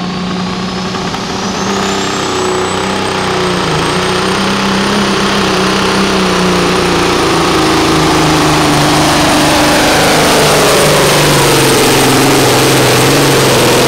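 A pulling vehicle's engine run hard under load, loud and continuous, with a thin high whine that climbs over the first few seconds and then holds. The engine's pitch sags gradually in the second half as it lugs down.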